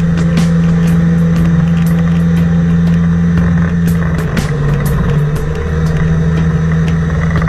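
A motor engine running steadily at a constant speed. It wavers and dips briefly about halfway through, then settles again.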